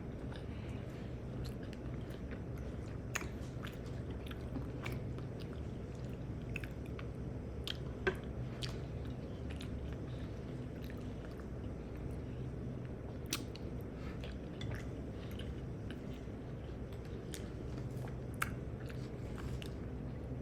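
A person chewing and eating close to the microphone, with scattered wet mouth clicks and smacks over a steady low hum.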